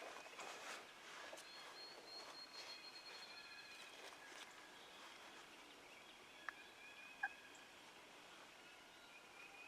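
A wild turkey gobbling faintly in the distance in the first second or so, with songbirds singing thinly behind it. Two sharp little clicks come a little past the middle.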